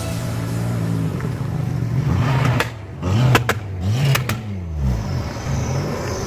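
Car engine held at a steady rev, then blipped up and down several times in quick succession. A few sharp cracks come around the middle.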